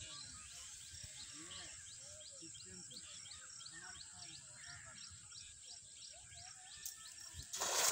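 Quiet rural ambience with a bird chirping over and over, about three high chirps a second, and other birds faint in the background. Near the end comes a sudden loud splash as a cast net is thrown and lands on the water.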